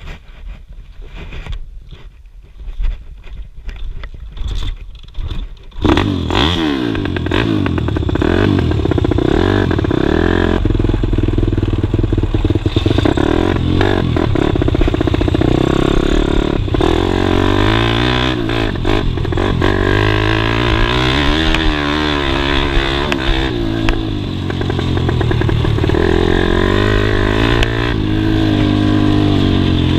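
Scattered knocks and clatter, then about six seconds in a pit bike engine comes in loud and revs up and down again and again as the bike is ridden.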